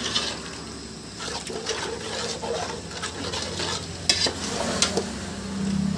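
A spoon stirring and scraping chicken masala as it fries in a pan, with sizzling and a couple of sharp clicks of the spoon against the pan about four seconds in.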